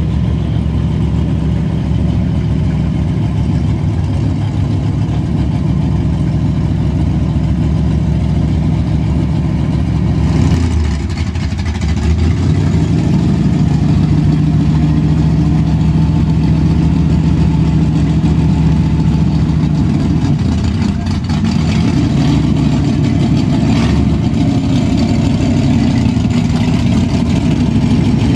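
A 1957 Chevrolet gasser idling loudly as it creeps along at low speed. The note breaks and dips briefly about ten seconds in, then holds steady, and its pitch wanders over the last several seconds as the car pulls away.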